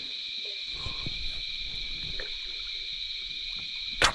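Steady, high-pitched chorus of night insects in a swamp, with faint low rustling and knocking from the jon boat underneath. A single sharp knock comes near the end.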